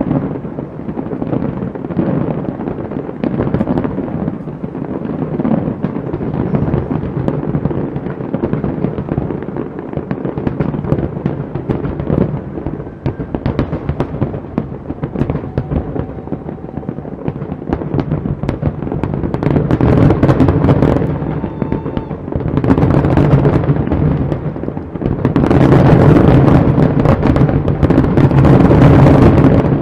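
Aerial fireworks display: a dense, continuous crackling and popping of many shells bursting, getting louder and fuller in the last few seconds.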